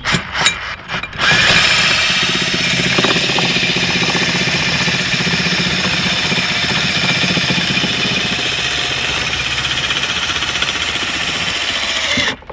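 Cordless drill driving a homemade box spanner, spinning a nut down a threaded bar to clamp the hive boxes down. A few clicks as the spanner is fitted over the nut, then the drill runs steadily for about ten seconds and stops suddenly near the end.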